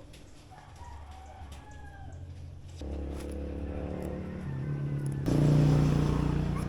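Electric dog hair clippers buzzing through matted fur. The hum gets louder and steps up in pitch twice over the last few seconds.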